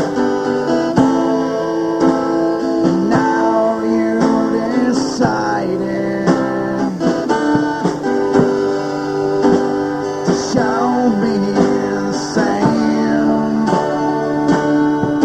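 Live band playing an instrumental guitar passage: sustained chords under a lead guitar whose notes bend and slide, repeatedly, at several points.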